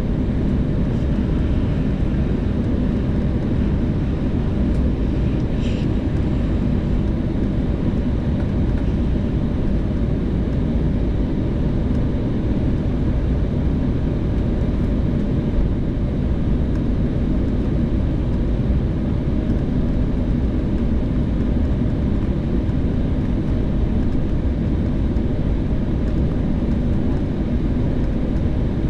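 Embraer 190 cabin noise: the jet's General Electric CF34-10E turbofans and airflow heard from inside the passenger cabin as a steady, loud low roar.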